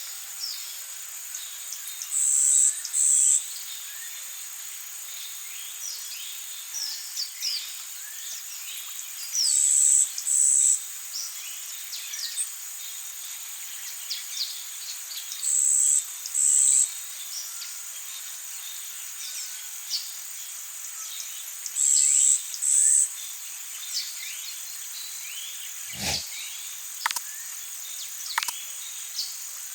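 Tropical forest ambience: a steady high insect drone with a loud two-part buzzing call repeating about every six seconds, over many short bird chirps and whistles. A few sharp downward-sweeping calls come near the end.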